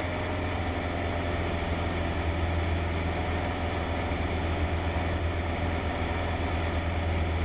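Cessna 152's four-cylinder Lycoming engine and propeller droning steadily in cruise flight, with a strong low hum.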